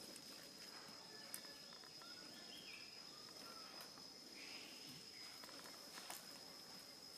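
Faint outdoor ambience: a steady, unbroken high-pitched insect trill, with a few faint short chirps in the middle and a couple of small clicks.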